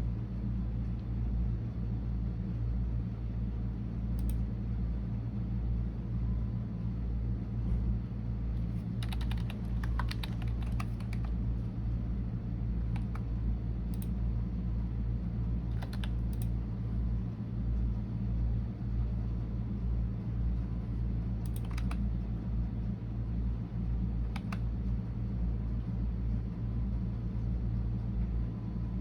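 Computer keyboard typing in short, scattered bursts of key clicks, with pauses between them, over a steady low rumble.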